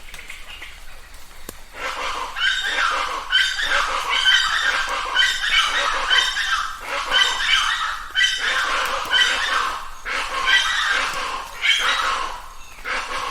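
Chachalacas calling loudly in a rhythmic run of repeated calls, about one a second, that starts about two seconds in. Before the calls, only a faint hiss of light rain is heard.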